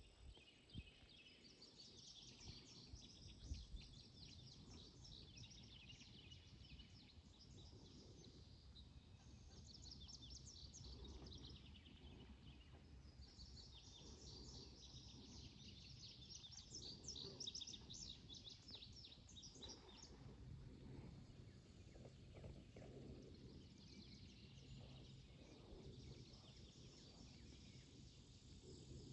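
Faint outdoor ambience of birds chirping in several bouts of rapid high notes, over a steady low rumble.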